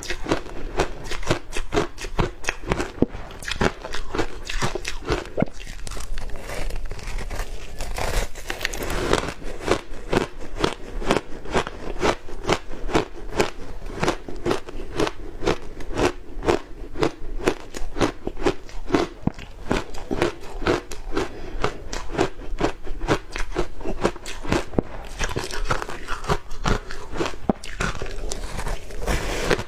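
Ice coated in matcha powder being bitten and chewed, with sharp crunches following one another quickly and steadily.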